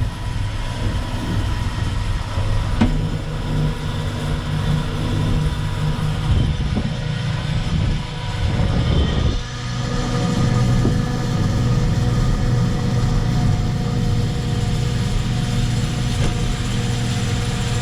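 Rear-mounted diesel engine of a Terex FD4000 6x6 front-discharge concrete mixer truck running steadily, with its pitch shifting a little twice and a few faint knocks.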